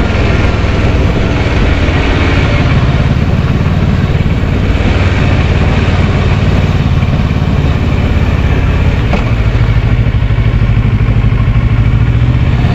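Kawasaki Versys 650's parallel-twin engine running steadily under way, heard with a constant rush of wind noise.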